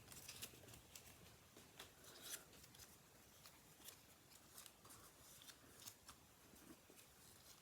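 Faint rustling and scattered light clicks of paper pieces being handled on a craft table.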